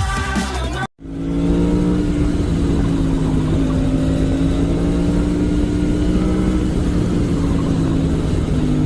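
Music cuts off about a second in, and a motor vehicle engine follows, running steadily with only a slight rise and fall in pitch.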